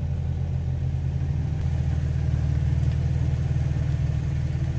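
Jeep engine running steadily at low revs with a deep, even rumble that grows slightly louder about halfway through.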